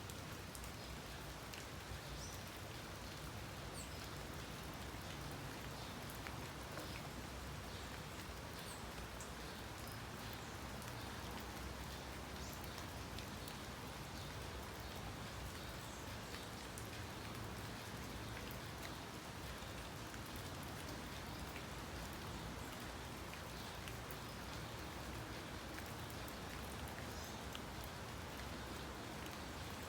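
Steady outdoor noise like light rain, even in level throughout, with faint short high-pitched ticks scattered through it.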